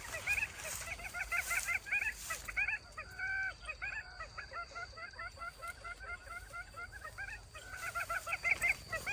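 A flock of domestic fowl calling together: many short, overlapping calls, one after another without a break.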